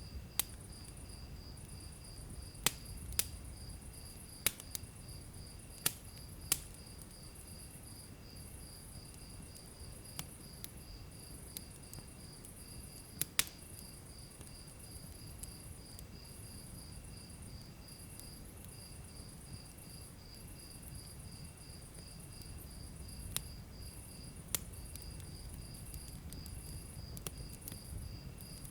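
Wood fire in a fireplace crackling, with irregular sharp pops over a low rumble of flames. A steady, rhythmic high chirping of about three a second runs on beneath it.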